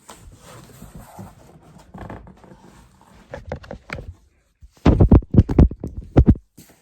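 Handling noise from a phone being moved and set down: scraping and rubbing against the microphone, then a quick run of loud bumps and knocks near the end.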